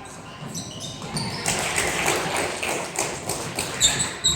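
Basketball game sounds in a gym: short sneaker squeaks on the court floor, with crowd voices swelling about a second and a half in.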